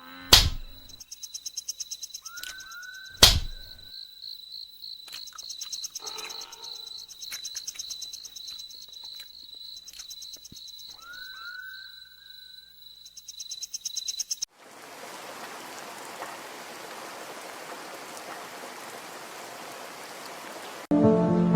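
A steady, high-pitched pulsing trill from a calling animal, with two sharp clicks in the first few seconds and two pairs of short rising chirps. About two-thirds of the way through it cuts off into an even hiss.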